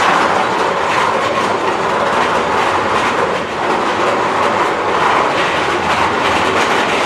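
Ride cars running along a roller-coaster track: a steady loud rumble with fast clacking from the wheels.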